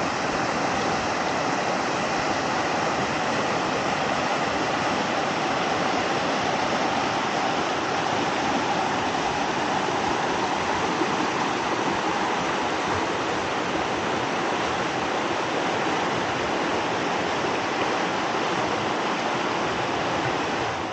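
Rushing stream water: a steady, even rush of flowing water.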